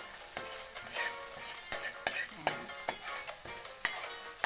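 A spatula stirring and scraping in a wok, with irregular sharp clicks against the pan, while chopped onion and corned beef sizzle in hot oil.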